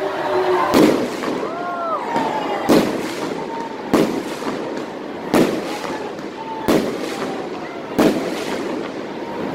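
Aerial firework shells bursting overhead: six sharp bangs about a second and a half apart.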